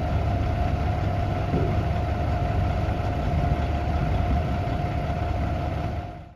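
Diesel engine of a 1999 Freightliner FL112 dump truck idling steadily, with a steady whine above the engine note. The sound fades out at the end.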